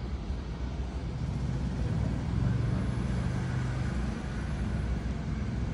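Low, steady rumble of a motor vehicle's engine running, swelling louder from about two to four seconds in.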